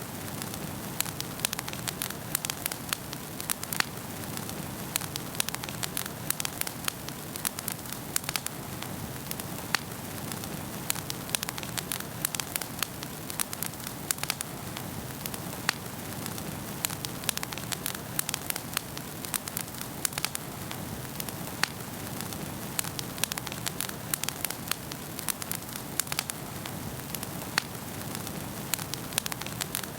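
Wood fire burning in a fireplace, crackling steadily with frequent sharp irregular pops and snaps over a low rushing bed of flame.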